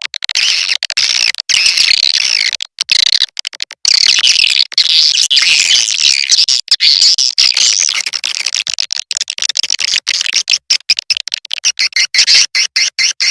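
Swiftlet-calling recording: dense, rapid twittering chirps of edible-nest swiftlets, high-pitched and warbling, played as a lure call to draw swiftlets to a nesting house. The sound is choppy, broken by many very short gaps.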